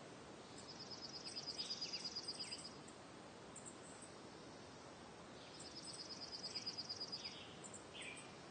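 Faint birdsong over a steady hiss: two rapid high trills, each about two seconds long, with a few short chirps between them.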